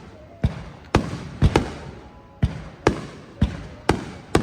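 Aerial firework shells bursting in a rapid run of about nine sharp booms, roughly two a second, each trailing off in echo.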